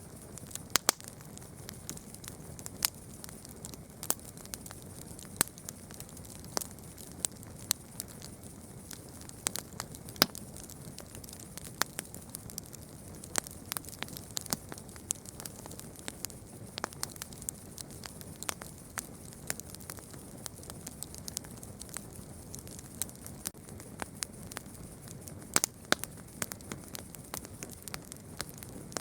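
Campfire crackling: wood burning with irregular sharp pops and snaps, several a second at times, over a soft steady hiss of flames. The loudest pops come near the start, about ten seconds in, and shortly before the end.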